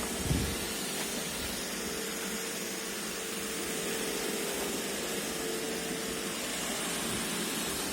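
iRobot Roomba e5 robot vacuum running: a steady whir with a faint steady whine, and one short low knock just after the start.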